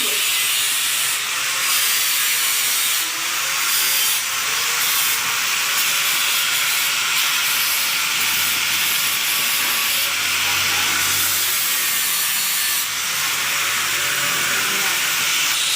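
Abrasive sanding of a freshly welded steel motorcycle exhaust, smoothing the welds: a steady rasping scrape.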